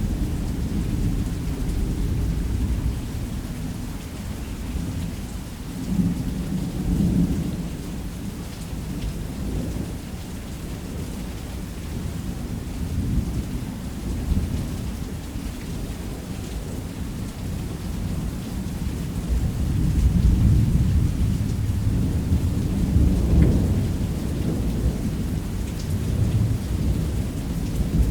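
Thunder rumbling on and off over steady rain on a roof. The low rumble swells about six seconds in and grows again through the last third.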